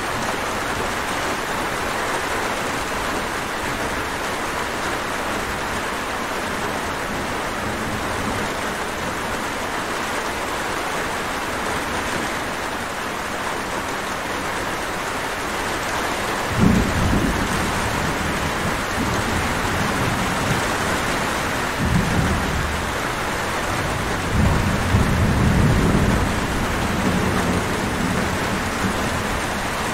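Steady heavy rain falling. In the second half, low rolls of distant thunder rumble three times under it, the first a little past halfway.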